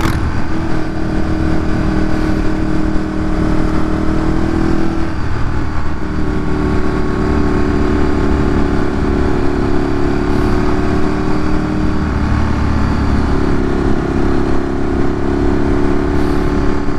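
Ducati Streetfighter 848's V-twin engine with a Termignoni exhaust running at fairly steady revs under way, its note shifting to a new pitch a few times, around five seconds in and again around twelve seconds in.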